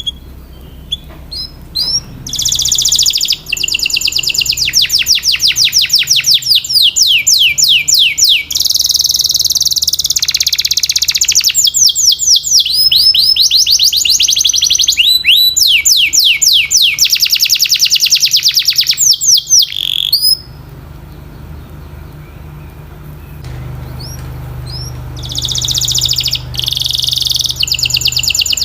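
Domestic canary singing: long runs of fast repeated high trill notes, each a quick downward sweep, switching from one trill to the next. The song stops for a few seconds about two-thirds of the way through and starts again near the end, over a faint steady low hum.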